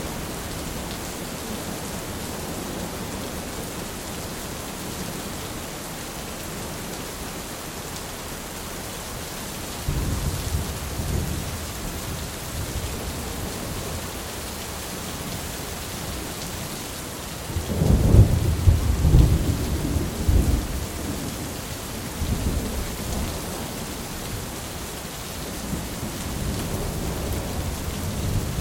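Thunderstorm: steady rain with rolling thunder. A rumble starts about ten seconds in, a louder peal about eighteen seconds in rumbles on for several seconds, and more thunder builds near the end.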